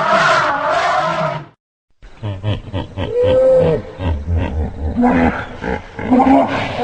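Large wild animal roaring calls from two separate recordings: one call that stops about a second and a half in, a short silence, then deep pulsing grunts with a rising-and-falling cry.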